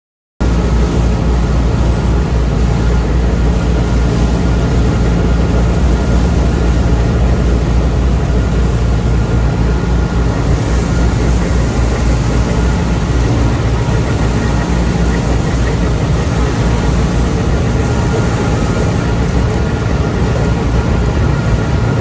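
A tractor engine running steadily at a constant speed. It comes in suddenly just after the start.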